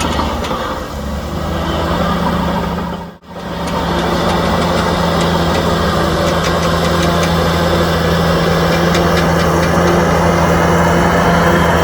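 Heavy diesel engine of earthmoving equipment running steadily, with a brief drop-out about three seconds in.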